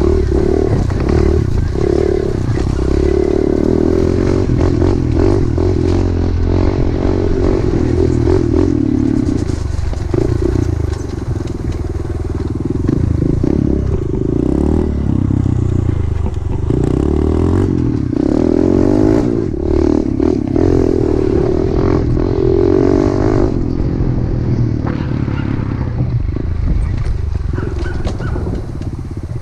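Pit bike engine running under throttle, revs rising and falling again and again, with scattered knocks and rattles from riding over rough trail.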